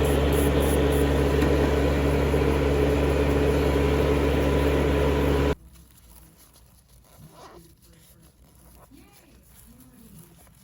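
Steady electric motor whir with a hiss from manicure salon equipment, switched off suddenly about halfway through. Faint handling sounds follow.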